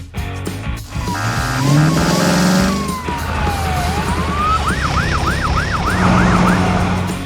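Cartoon sound effects over background music: a long tone that slides down and back up, then a fast yelping siren wail for about two seconds.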